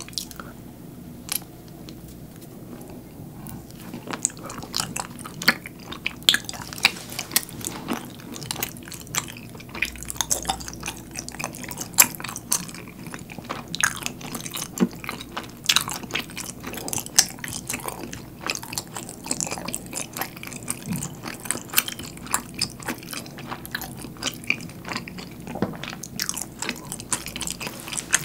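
A person chewing a chewy rice-cake dango glazed in a sweet soy-sauce starch sauce, with many small sharp mouth clicks and smacks. The chewing gets busier about four seconds in.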